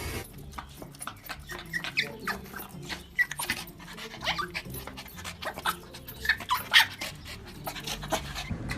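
A dog whining and yipping in an irregular string of short, high sounds.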